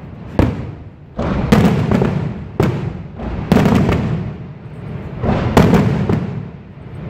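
Fireworks shells bursting one after another in a large display: about eight sharp bangs, each trailing off in a rolling rumble, some landing close together.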